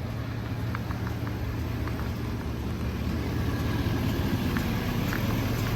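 Vehicle driving at steady speed: a continuous low drone of engine and road noise that slowly grows a little louder, with a few faint scattered ticks.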